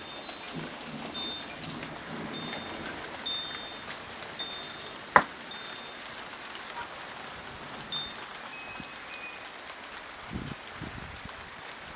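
Steady rain falling during a thunderstorm, with low thunder rumbling briefly near the start and again near the end. A single sharp click about five seconds in is the loudest moment.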